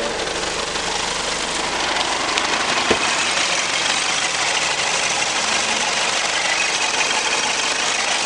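Mitsubishi 4M41 3.2-litre four-cylinder turbo diesel idling steadily, a little louder from about two seconds in, with one sharp click near three seconds.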